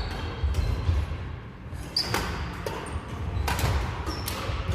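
A badminton rally on an indoor court: sharp racket hits on the shuttlecock about two seconds in and again a second or so later, with short high shoe squeaks on the court floor and low thuds of footsteps.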